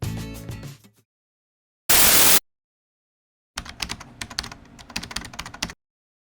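Sound effects: music cuts off, then a half-second burst of static hiss, then about two seconds of rapid, irregular clicking like keyboard typing.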